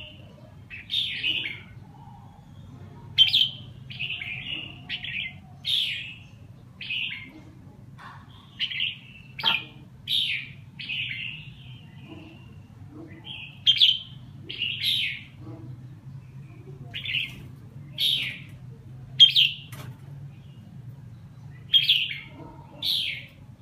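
Bird giving short, sharp chirps, about one a second at irregular spacing, over a steady low hum.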